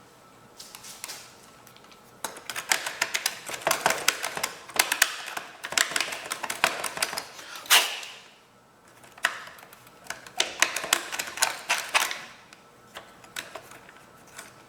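Small metal hand tools clattering and clicking in quick, irregular bursts, as when rummaging through a set of hex keys or bits to find one that fits. There is a short pause about eight seconds in.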